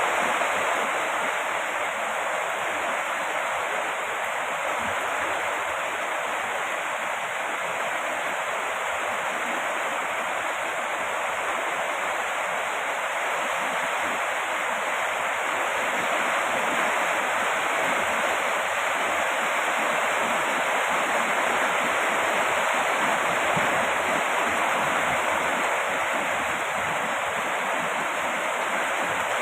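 Steady heavy rain: an even, unbroken hiss of falling water with no single drops standing out.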